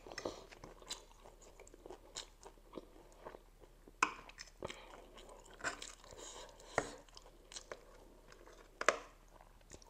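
Close-miked chewing of spicy instant noodles and momo chili: irregular wet smacks and sharp mouth clicks.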